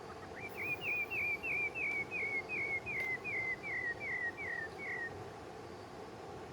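A bird calling: a run of about a dozen short, down-slurred whistles, roughly three a second, that drift lower in pitch and stop about five seconds in.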